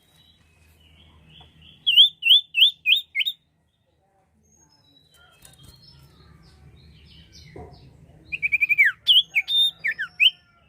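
Sirtu songbird calling in two bursts of rapid, sharp chirps, each note sliding quickly in pitch, with a pause of several seconds between the bursts.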